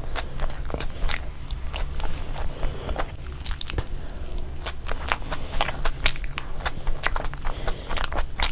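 Close-miked chewing of a mouthful of gravy-dipped burger: wet smacking and many sharp, irregular mouth clicks, several a second, with a faint steady low hum underneath.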